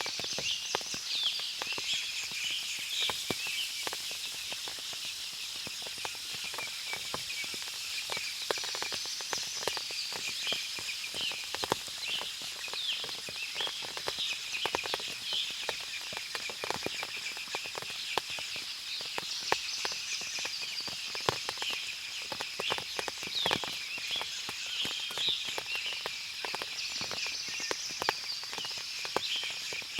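Forest ambience after rain: many birds chirping densely over a steady high-pitched drone, with frequent small clicks and drips throughout.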